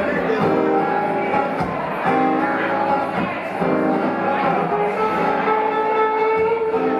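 Live rock band playing a song, with guitar prominent among sustained, ringing notes.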